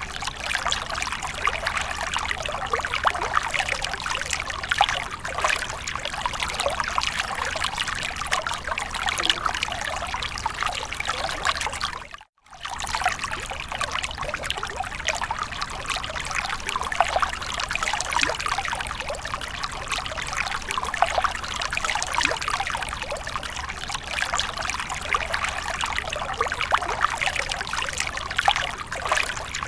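Continuous splashing, trickling water, steady throughout, with a brief cut-out to silence about twelve seconds in.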